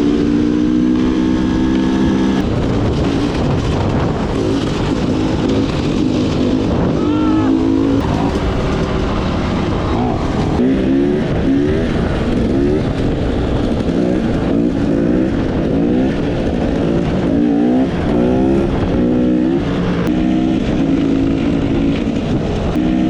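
Dirt bike engine under load, held steady at first, then revving up again and again in quick rising sweeps as the throttle is worked, with a steady rush of wind or rain noise underneath.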